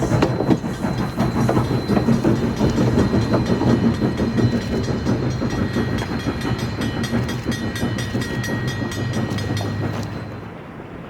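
Passenger train hauled by ALCO 2-8-2 Mikado steam locomotive #40 rolling past, its steel wheels clicking rhythmically over the rail joints. The sound drops away suddenly near the end.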